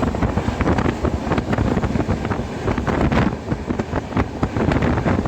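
Passenger train in motion: a steady rumble with rapid rattling and clatter of the carriage, and wind buffeting the microphone.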